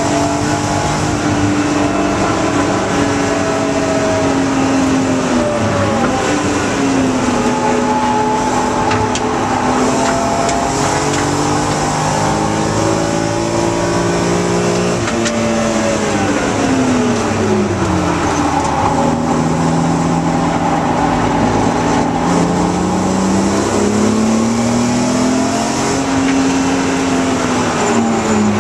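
BMW E36 M3 Evo's straight-six engine heard from inside the cabin at track speed, its pitch rising and falling with throttle and gear changes. The pitch dips sharply about six seconds in and falls steadily from about fifteen to eighteen seconds in before climbing again, over steady tyre and wind noise.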